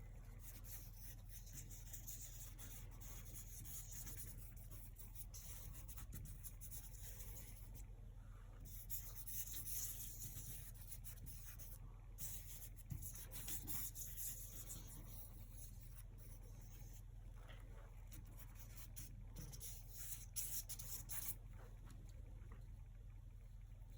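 Paintbrush strokes on canvas: a faint, scratchy rubbing that comes in runs of strokes, with short pauses twice and again near the end.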